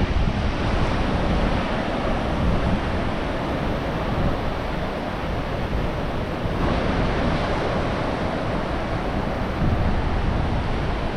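Ocean surf washing onto the beach, mixed with wind rumbling on the microphone.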